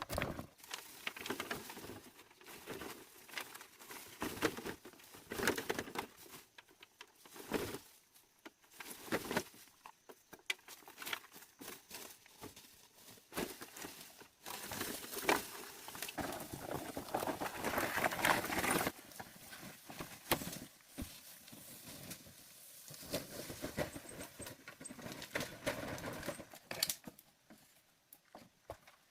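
Irregular rustling and crackling of dry leaves and sticks being handled, with scattered sharp knocks and clicks; the rustling is densest a little past halfway.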